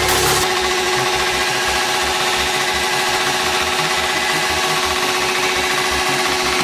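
Motorcycle engine held at high revs, with a rapid, even pulsing.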